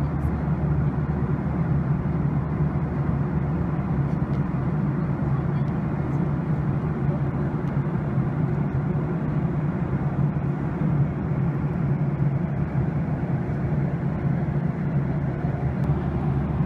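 Steady cabin noise of a Skymark jet airliner in cruise: even engine and airflow noise with a strong low hum.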